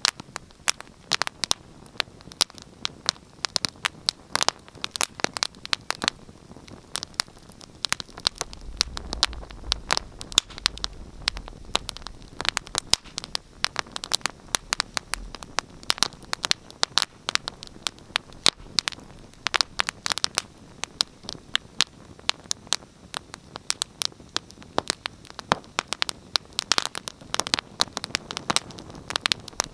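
Wood fire crackling in a fireplace: irregular sharp pops and snaps, many a second, over a soft steady hiss. A faint low rumble joins in for several seconds near the middle.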